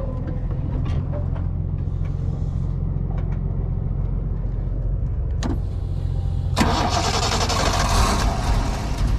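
Dodge Ram SRT-10's 8.3-litre V10 starting on a jump from a portable jump starter: after a low rumble and a click, the engine catches about six and a half seconds in and keeps running loudly.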